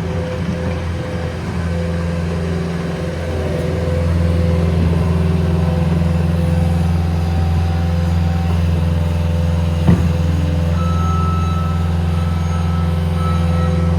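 A large road vehicle's engine running close by with a steady low hum that grows louder about four seconds in, with a single sharp click about ten seconds in.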